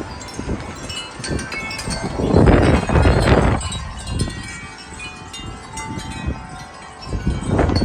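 Metal wind chimes ringing and clanging continuously in strong, gusty wind, with wind rushing and buffeting the microphone; the strongest gust comes about two to three and a half seconds in, and another near the end.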